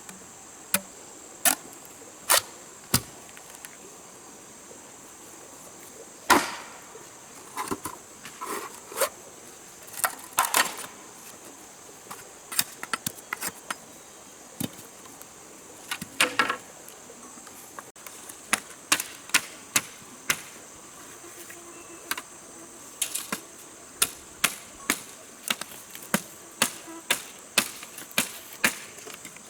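Sharp, irregular knocks and taps of hand work on wood or bamboo over a steady high-pitched drone of insects. The knocks come about one a second near the end.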